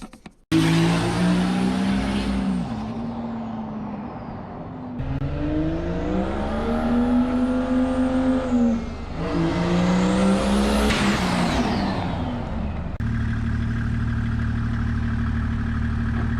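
Turbo-diesel van engine (a Mercedes OM606 six-cylinder) being driven hard: its pitch climbs and falls several times. Near the end it settles to a steady idle.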